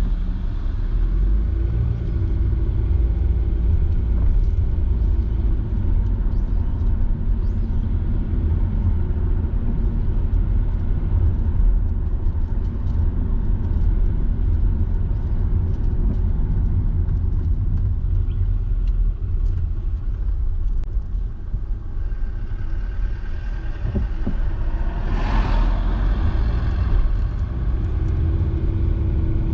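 A car driving along at a steady pace: a continuous low rumble of engine and road noise. About 25 seconds in, a brief louder rushing noise rises and fades.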